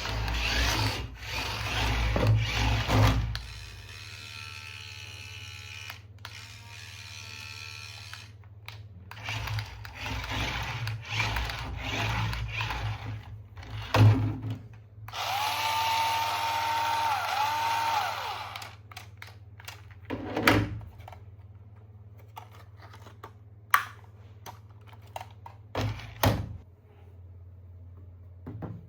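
Toy-handling sounds: a whirring, drill-like noise at the start, then scattered knocks, clicks and rubbing. Around the middle a steady, beep-like tone holds for about three seconds.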